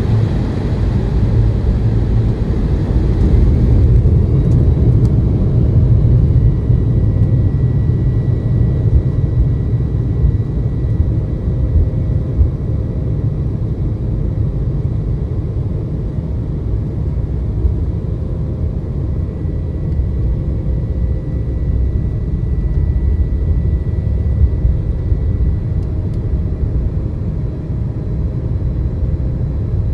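Airliner in flight: a steady low rumble of engine and airflow noise, with a faint steady whine above it.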